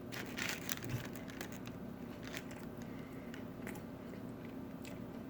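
Someone chewing crispy fried chicken wings with the mouth close to the microphone: irregular crunches of the fried breading between quieter chewing.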